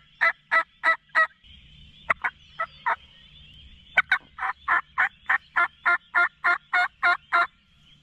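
A loud series of turkey yelps, about three notes a second, in runs with a short break near the start and a longer run from about halfway in. A faint steady high background of other calling lies under it.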